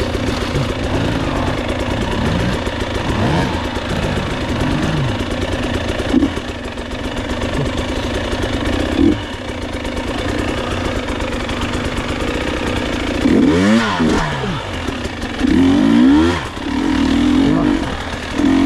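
Enduro motorcycle engine running under load on a trail, its revs rising and falling with the throttle, with a couple of short knocks about six and nine seconds in and hard revving surges near the end.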